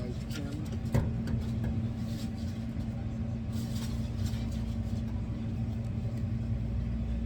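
Steady low drone of a running engine, with an even hum and a few faint knocks.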